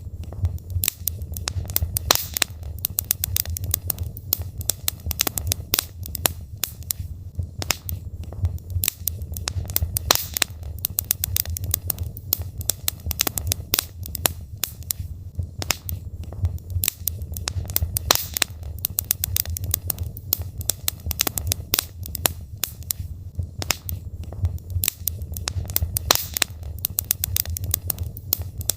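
Logs burning in a fireplace: dense, irregular crackling and sharp pops of the wood over a steady low rumble of the fire.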